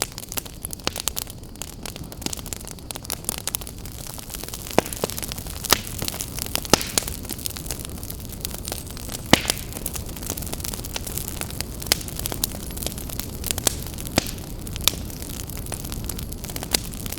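Open wood fire in a fireplace burning, with a steady low rumble of flames and frequent irregular crackles and sharp pops of the burning wood.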